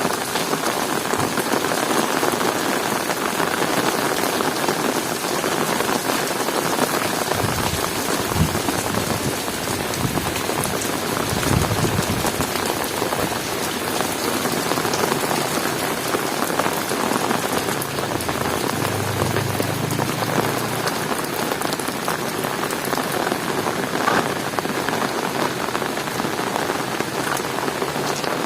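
Heavy rain falling steadily, a dense even hiss, with a couple of brief low thuds about eight and twelve seconds in.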